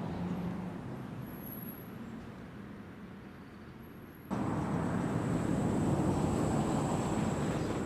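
A steady low rumble and hiss of outdoor background noise, like distant traffic, that jumps abruptly louder about four seconds in. After the jump a faint, thin, high steady whine runs under it.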